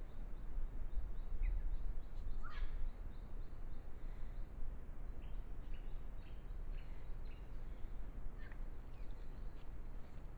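Faint wild birdsong: series of short high chirps, with a quick sweeping whistle about two and a half seconds in and another near the end. Beneath it is a steady low rumble in the trail camera's microphone.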